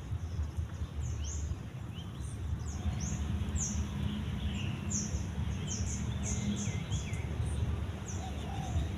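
Small birds chirping: short, quick high calls sweeping in pitch, about two a second, over a steady low rumble.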